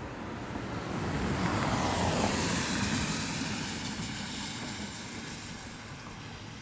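A vehicle passing, its noise swelling to a peak about two seconds in and then fading away.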